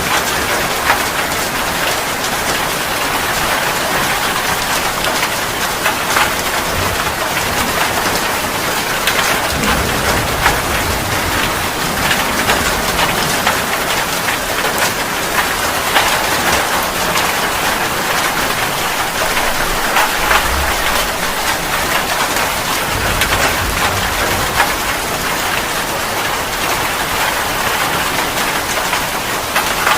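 Steady rain falling on surfaces, a dense even hiss with scattered close drop ticks, and a few brief low rumbles.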